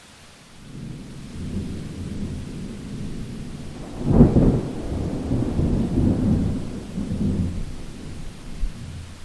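A roll of thunder over steady rain: a low rumble builds about half a second in, a loud crack comes about four seconds in, and the rumble rolls on and fades near the end.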